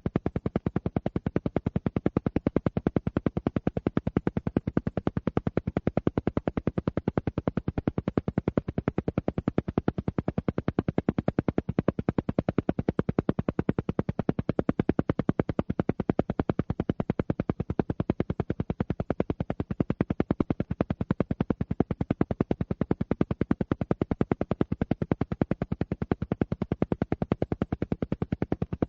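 Alpha-wave brainwave-entrainment tone, pulsing on and off rapidly and evenly, with no change through the stretch.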